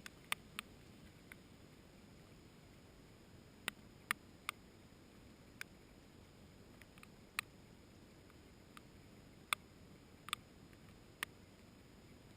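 Scattered raindrops striking close by: sharp, irregular ticks about once a second over a faint steady hiss.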